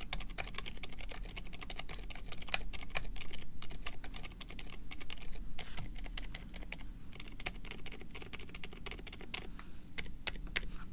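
Continuous typing on a Drop Tokyo60 aluminium-cased mechanical keyboard with lubed Gazzew Boba U4 silent tactile switches and PBT keycaps: fast, irregular keystrokes, several a second.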